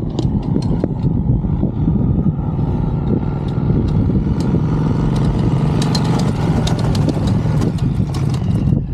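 Motorcycle engine running steadily, with scattered sharp clicks over it.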